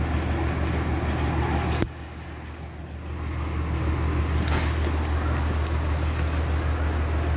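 Steady low hum of a passenger train car heard from inside the cabin. About two seconds in the sound suddenly drops, then builds back up over the next few seconds.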